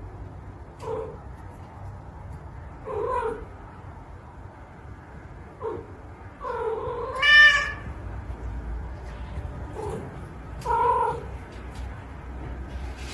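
Cat meowing repeatedly, about six calls a second or two apart. The loudest, about seven seconds in, is a long, drawn-out yowl that rises in pitch.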